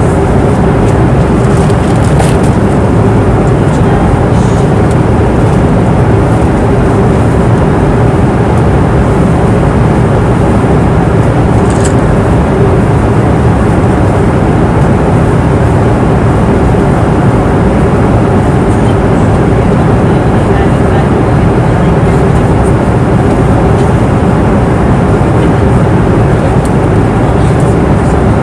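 Passenger airplane cabin noise in flight: a steady, dense rushing sound with a constant low hum underneath.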